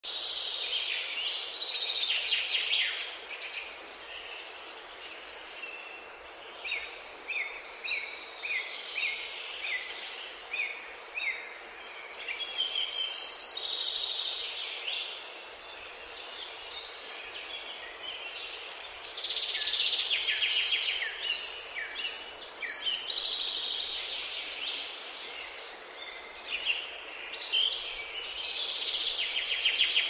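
Songbirds singing: repeated bursts of high, fast trills and, in the middle, a run of short falling chirps about two a second, over a steady background hiss.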